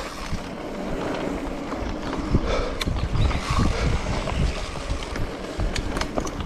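Wind rushing over the microphone of a rider moving fast down a dirt singletrack, with scattered knocks and rattles from the bike going over the trail.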